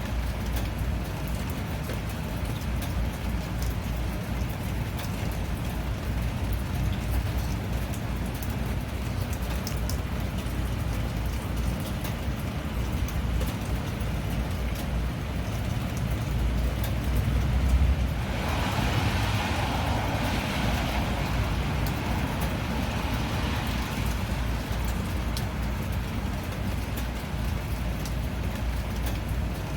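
Steady rain with scattered drop ticks over a low rumble. About eighteen seconds in, a louder hiss swells up and fades away over several seconds.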